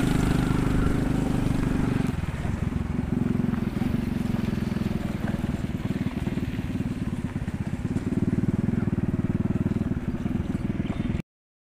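Engine of a moving vehicle running at road speed, a low, rapidly pulsing drone. It eases off about two seconds in, picks up again near the end, and then cuts off abruptly.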